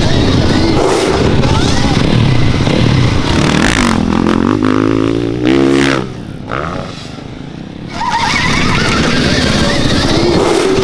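Dirt bike engines running and revving. One engine's pitch climbs sharply about halfway through, then it goes quieter for a couple of seconds before the engine noise returns.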